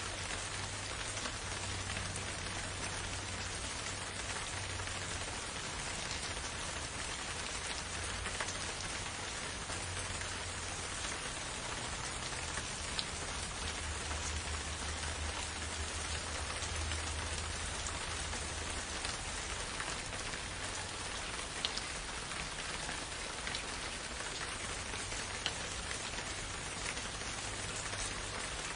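Steady rain falling, an even hiss of drops with a few sharper, louder drop hits scattered through it.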